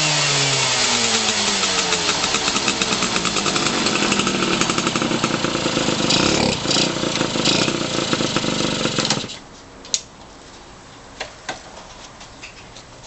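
Yamaha RX50 single-cylinder two-stroke motorcycle engine dropping from a rev, running with rapid even firing, then cutting off suddenly about nine seconds in. A few light clicks follow.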